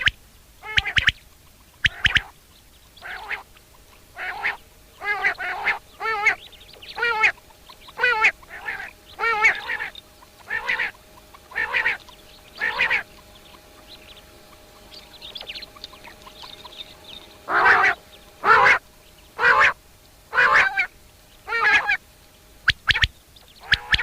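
A bird giving short, harsh, nasal calls in an irregular series, about one call a second, with a lull of a few seconds in the middle.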